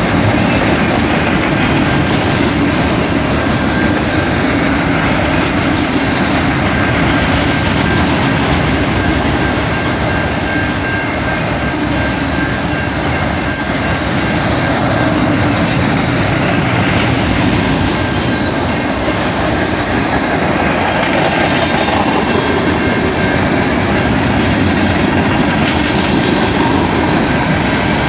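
Long freight train of autorack cars and flatcars rolling steadily past, its wheels clattering on the rails, with a high wheel squeal rising now and then.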